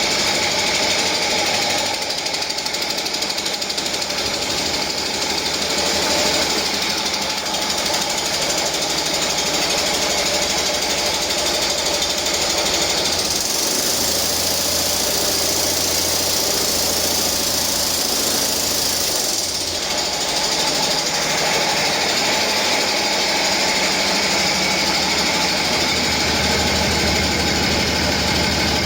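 2021 Cummins ISB 6.7L inline-six turbodiesel engine running on a test run, steady and without faults: an engine that runs well.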